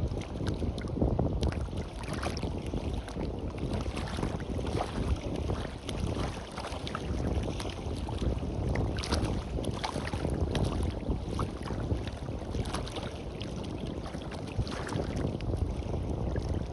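Wind buffeting the microphone over waves washing on the beach, a fluctuating rush with small crackling splashes.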